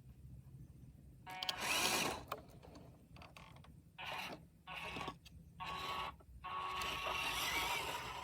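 Radio-controlled truck's small electric motor and gearbox running in short bursts, five in all, the last one longer, with a faint whine.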